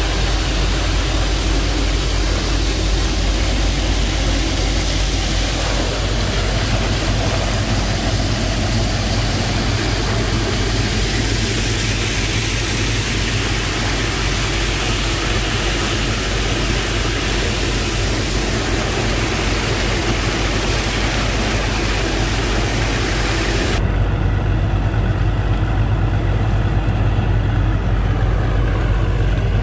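The engine driving a sand-boat pump runs steadily, with a rushing hiss over its low hum. About three-quarters of the way through, the hiss cuts off abruptly and the engine's low drone comes forward.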